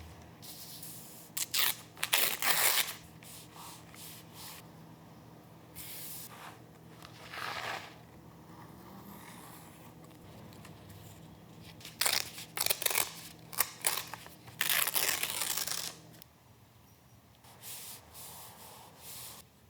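Paper being cut with scissors and torn by hand, in separate spells of snips, rustles and tears. The louder spells come about two seconds in and again from about twelve to sixteen seconds in.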